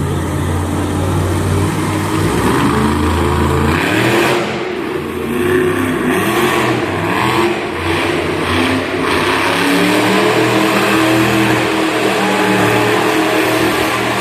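Monster truck engine revving and accelerating, its pitch rising and falling repeatedly.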